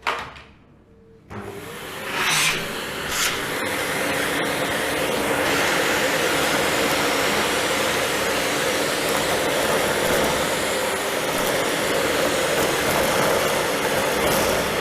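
Philips vacuum cleaner switching on about a second in, running up to speed and then running steadily, with a couple of sharp clicks soon after it starts.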